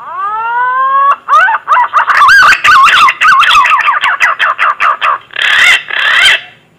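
Green pigeon (punai) song, the kind played as a hunting lure. It opens with one long rising whistle, then a quick run of wavering, warbling whistled notes, and ends with two harsher notes.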